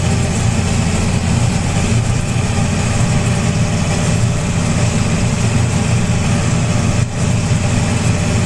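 Farm tractor engine running steadily while driving across a field, heard from aboard the tractor, with a brief dip in level about seven seconds in.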